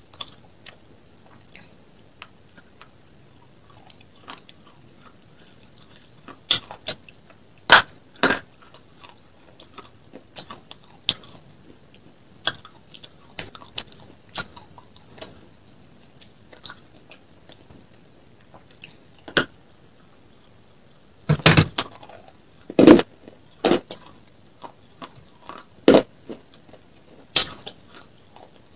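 Crunching bites and chewing of a hard, dry dark-grey slab, close to the microphone: irregular sharp cracks and crackles, loudest in a few clusters around eight seconds in and again about three quarters of the way through.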